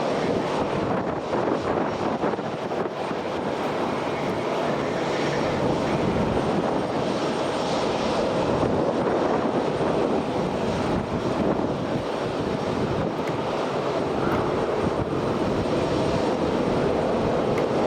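Airliner engines running at an airport, a steady rushing drone that holds an even level.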